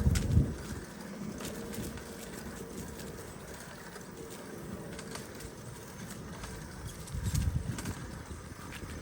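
Bicycle ridden along a dirt trail: steady rolling noise with scattered short clicks and rattles, and two brief low rumbling gusts of wind on the microphone, one at the start and one about seven seconds in.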